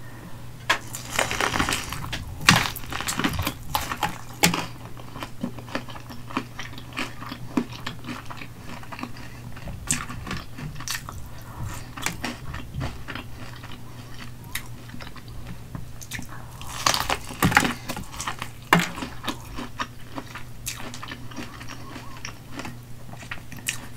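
Close-miked biting and chewing of corn on the cob coated in crushed hot Cheetos. Crisp crunches come in the first few seconds and again about two-thirds of the way in, with softer chewing between.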